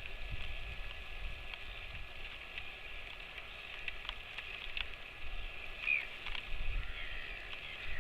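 Steady hiss of rain with scattered small drip ticks and a low wind rumble on the microphone. A couple of faint short high calls come about six seconds in and near the end.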